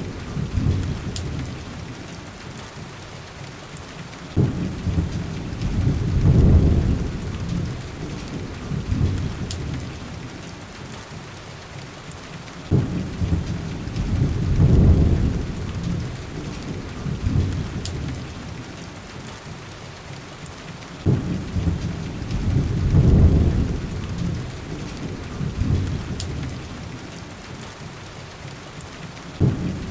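Steady heavy rain beating against a window, with low rolls of thunder. Four rumbles come at even gaps of about eight seconds, each starting suddenly and then swelling. A few faint sharp crackles, as from a wood fire, sound in between.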